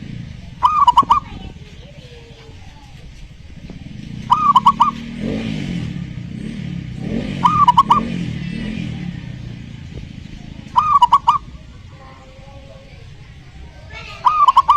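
Zebra dove (perkutut) singing: a short, looping cooing phrase repeated five times, about every three to four seconds. A lower, softer wavering sound runs under the middle phrases.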